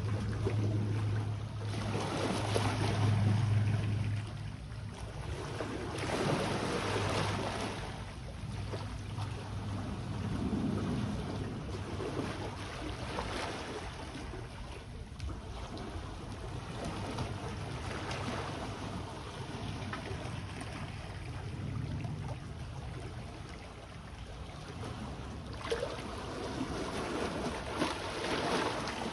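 Small sea waves washing onto the shore, swelling and fading every few seconds, with a low steady hum underneath that is strongest in the first few seconds.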